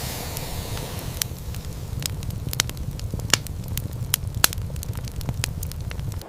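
Fire crackling, with irregular sharp pops and snaps over a low steady rumble; it cuts off suddenly at the end.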